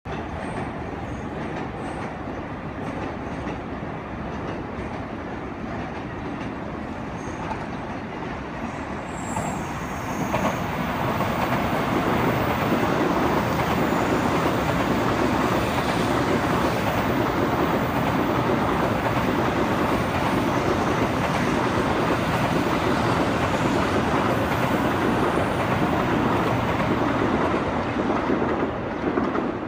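Tokaido Shinkansen N700 series train passing through at speed: a steady rush of wheel and air noise that comes up about ten seconds in and lasts until near the end.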